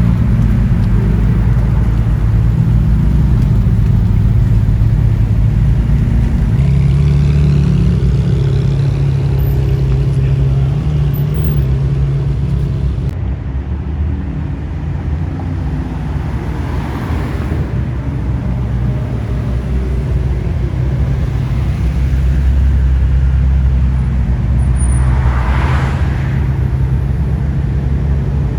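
A car running steadily with a low engine and road drone, its pitch shifting a few seconds in. Two brief louder whooshes come about 17 and 26 seconds in.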